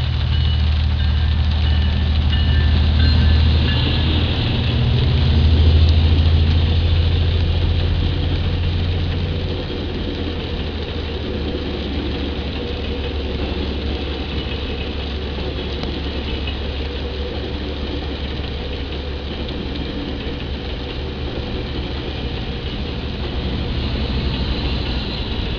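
GO Transit train hauled by EMD F59PH diesel locomotives (12-cylinder 710 engine): a deep engine drone, loudest about six seconds in, that drops away after about ten seconds. A steady rushing noise carries on after it.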